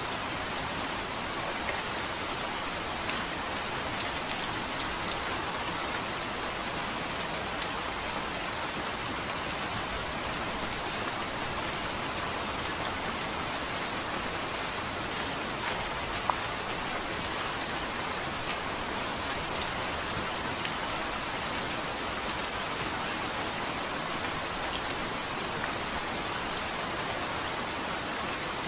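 Steady rain falling on a hard surface, with many small drop ticks scattered through a constant patter.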